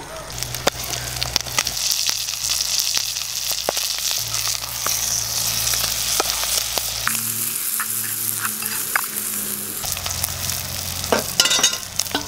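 Mutton liver and greens sizzling in a metal pot over a wood fire, stirred with a spoon that clicks and scrapes against the pot.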